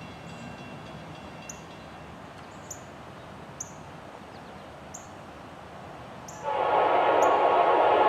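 Passenger train horn sounding near the end, a loud steady chord that starts abruptly and holds. Before it there is a faint background with a short high chirp repeating about once a second.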